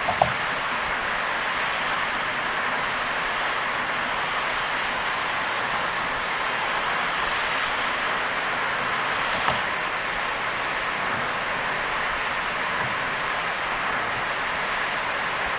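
Steady rush of heavy rain and tyre spray from a car driving on a rain-soaked expressway, with two brief knocks, one at the start and another about halfway through.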